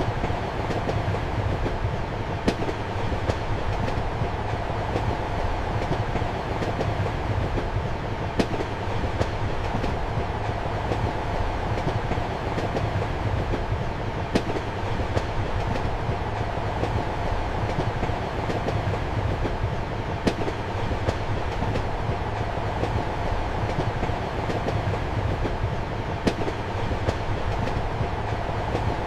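Steady rumble of a moving passenger train heard from inside a compartment, with a sharp click of the wheels about every six seconds.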